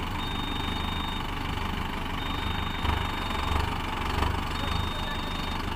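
Mahindra tractor's diesel engine running steadily, with two brief surges in power about three and four seconds in.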